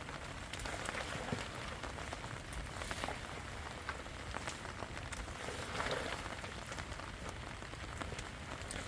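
Steady rain falling, with many separate drops striking a surface.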